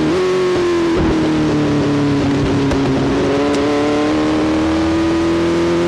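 Motorcycle engine running hard at fairly steady revs. Its pitch sags a little after a brief jolt about a second in, then climbs slowly until another jolt near the end.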